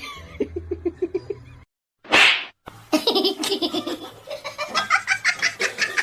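A person laughing in quick, rhythmic bursts, broken about two seconds in by a short, loud hissing burst, then more laughter.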